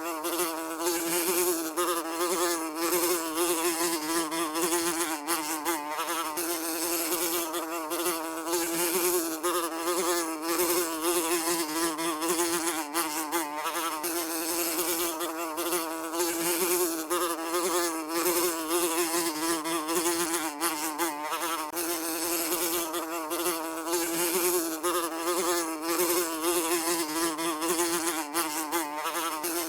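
A housefly buzzing without a break, its wing-beat hum near 300 Hz wavering slightly in pitch as it flies.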